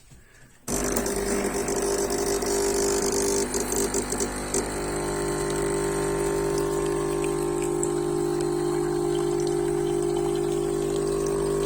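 Klarstein Espressionata Gusto espresso machine's pump switching on suddenly about a second in and running with a steady hum, pulling a shot of espresso. There is some crackling over the first few seconds.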